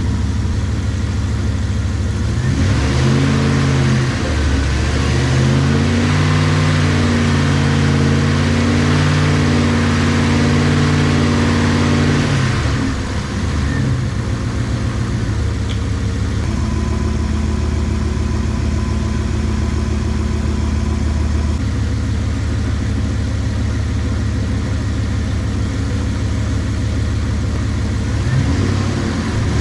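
Dodge 318 V8 idling as it warms up while its cooling system burps air through a filler funnel. From about two and a half seconds in, a louder whirring rush joins it for about ten seconds and the engine note shifts in pitch, typical of the electric cooling fan cycling on, before it settles back to a steady idle.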